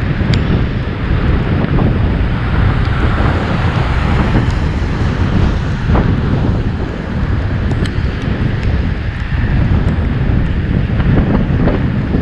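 Wind buffeting the microphone of a camera riding along on a bicycle: a steady, loud rush of wind noise, heaviest in the low end, with a few faint ticks.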